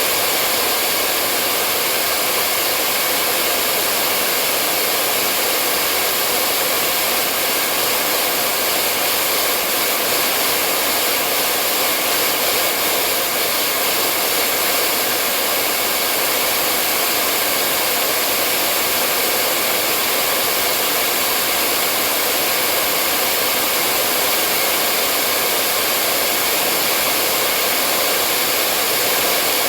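Hair dryer blowing continuously at a steady speed: an even, unchanging rush of air and fan motor noise.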